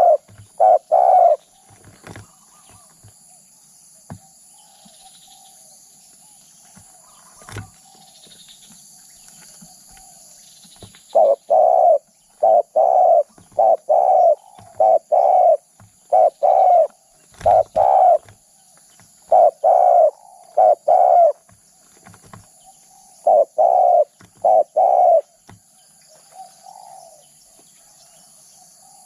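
Spotted dove cooing: low coos in short groups of two or three, repeated again and again. One group comes right at the start, then after a quieter stretch a long run of phrases follows from about eleven seconds in until a few seconds before the end.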